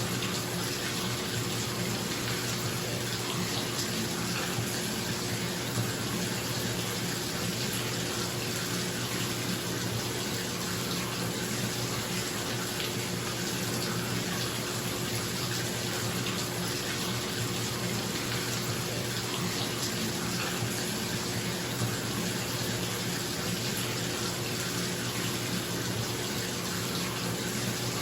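Bathtub tap running steadily, water pouring into a filling tub, with a bathroom exhaust fan humming underneath.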